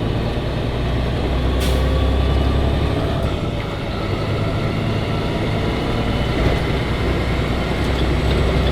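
Semi-truck engine running with road noise inside the cab while driving: a steady low drone, with a brief click about two seconds in.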